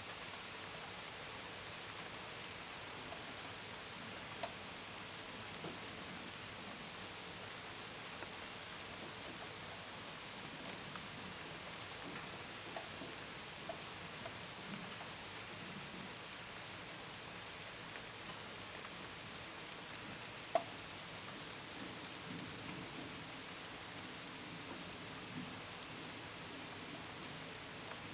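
Steady light rain with scattered drips pattering on a window and gutter, one drip louder than the rest about two-thirds of the way through. Crickets trill in a continuous high band over the rain.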